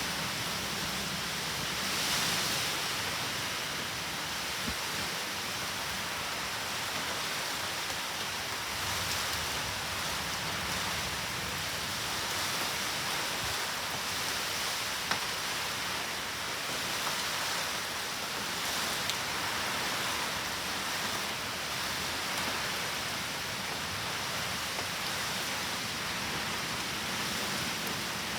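Steady typhoon rain, an even hiss with a few sharp ticks.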